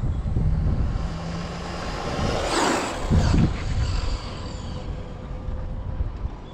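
Electric RC drag car (Losi 22S Camaro) making a run past the microphone: its motor whine and tyre noise swell and fade about halfway through, with a short low thump at the loudest point. Wind rumbles on the microphone throughout.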